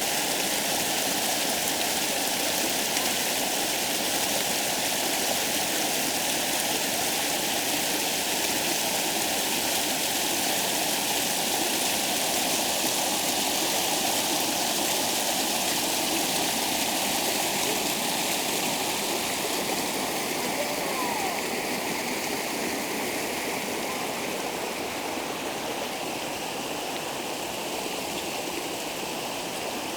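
Waterfall on a mountain creek: a steady rush of falling and splashing water, growing a little quieter over the last several seconds.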